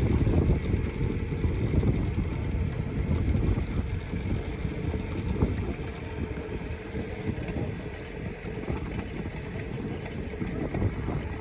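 Wind buffeting the microphone on a motorboat out on the lake, over the low steady noise of the boat running; the gusts ease a little after the first few seconds.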